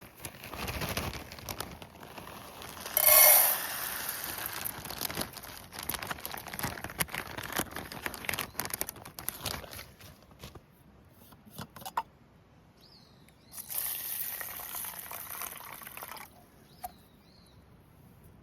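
Liquid being poured, in two bouts: a longer one over the first ten seconds with clicks and a loud rush about three seconds in, then a shorter one near the end.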